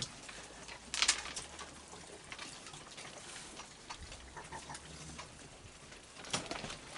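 Raccoons feeding: scattered crunching, chewing and scuffling, with a louder cluster of crunches about a second in and again near the end.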